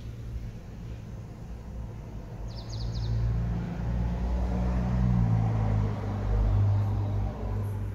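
A Toyota Sienta's engine idling steadily in Park, heard from inside the cabin, with a low hum that grows louder about three seconds in.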